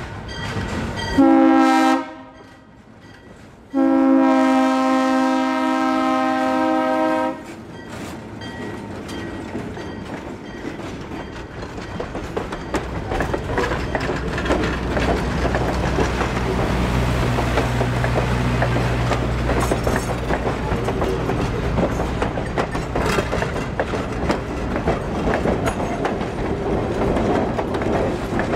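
ALCO S-2 diesel switcher locomotive sounding its air horn, a chord of several notes: one short blast, then a long one of about three and a half seconds. The train then rumbles past, deep and steady, and the passenger coaches' wheels clickety-clack over the rail joints.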